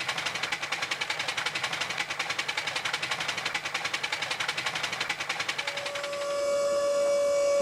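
Steam locomotive chuffing rapidly and evenly, then its steam whistle starts blowing about two thirds of the way through and gets louder to the end.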